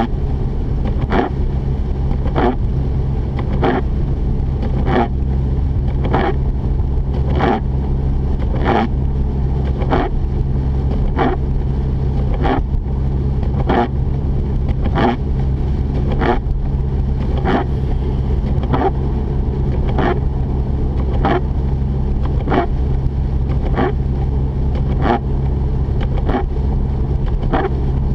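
Mazda RX-8's Renesis twin-rotor engine and road noise making a steady drone inside the car's cabin while driving. A short, sharp tick sounds evenly about every 1.2 seconds.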